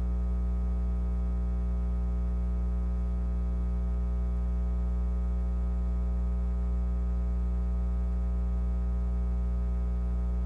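Steady electrical mains hum: a low, unchanging buzz with a stack of overtones and nothing else over it.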